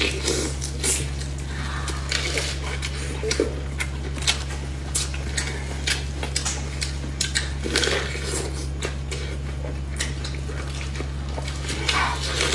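Close-miked eating: wet chewing and smacking of lettuce wrapped around fatty Sichuan cured pork, with many irregular small clicks and crunches, over a steady low hum.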